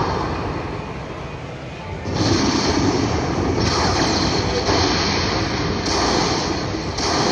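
Casino slot machine din during a hold-and-spin bonus: a steady rushing noise, louder from about two seconds in, with the machine's spin sounds coming in short blocks about a second long.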